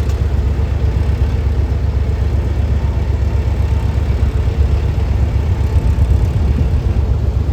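An engine running steadily, a loud low rumble with no change in speed.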